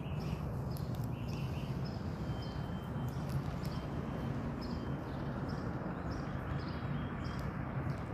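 Steady outdoor background noise with a low hum, and faint light ticks recurring a little under twice a second.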